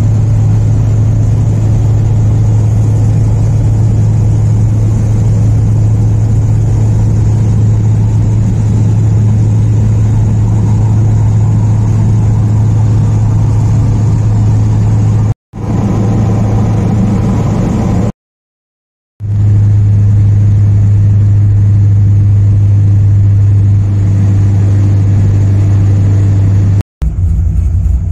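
The 1972 Corvette C3's LT-1 V8 is heard from inside the cabin, a steady low drone with road noise while cruising on the highway. The sound cuts out abruptly twice around the middle, for about a second the second time, then returns to the same steady drone. After a short break near the end the engine note is lower and rougher.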